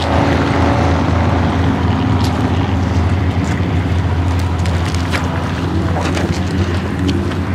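Ferrari 365 GTB/4 Daytona Competizione's 4.4-litre V12 running at fairly steady revs as the car slides through a snow-covered corner, with wind on the microphone.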